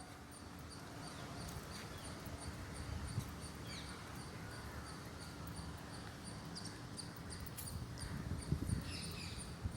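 Faint outdoor ambience: an insect chirping in a steady, evenly spaced high rhythm, with a few short bird chirps and a low rumble underneath.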